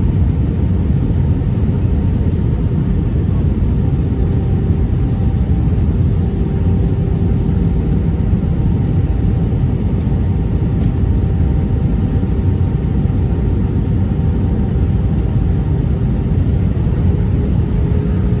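Steady cabin noise inside an Airbus A319 in flight: a low rumble of airflow and engines with a faint steady hum, unchanging throughout.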